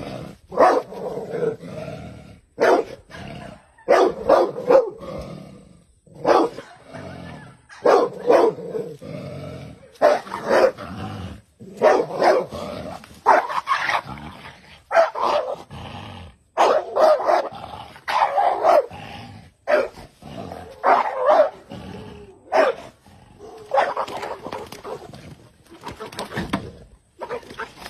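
A dog barking over and over, loud clusters of short barks with brief pauses between them.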